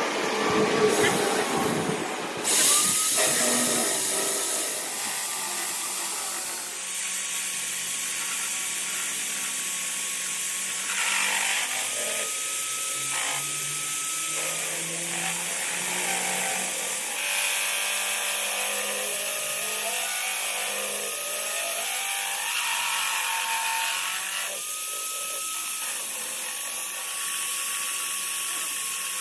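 A power tool running steadily through metal work, its whine dipping and rising in pitch several times.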